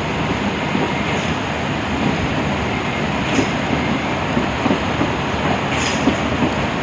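Steady roar of a swollen mountain stream in spate after a cloudburst, with small irregular surges in the rushing water.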